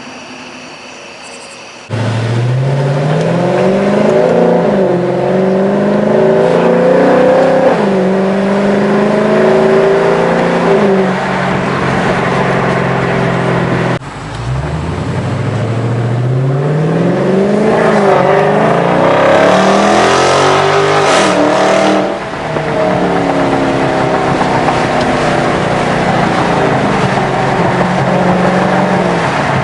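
Dodge Charger Scat Pack's 392 HEMI V8 running through an exhaust with Dynomax mini race bullets in place of the mid mufflers, stock resonators kept. The car accelerates hard in two pulls, the note climbing and dropping back at each gear change, then holds a steady note for the last few seconds.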